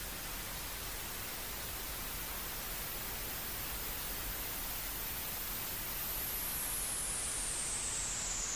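Synthesizer noise hiss, steady and dense, with a resonant filter sweep: from about six seconds in a thin whistling edge glides steadily downward as the filter closes.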